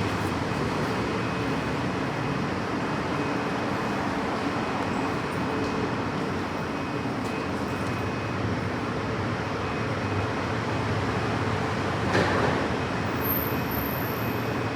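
Steady low rumble and hum of background machinery or traffic noise, with a brief louder rush about twelve seconds in.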